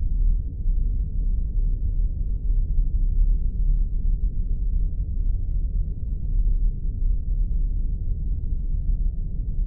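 Spaceship sound effect: a steady deep engine-like rumble, with faint scattered clicks above it.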